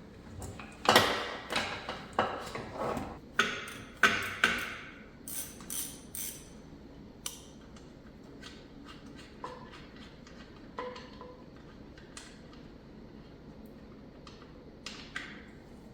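Metal hand tools and parts clinking: a quick run of sharp clinks and clanks over the first six seconds or so, then a few scattered lighter ticks.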